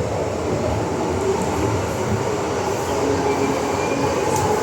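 MTR M-Train running through the tunnel, heard from inside the car: a steady rumble of wheels and motors with faint whining tones, growing slightly louder in the second half.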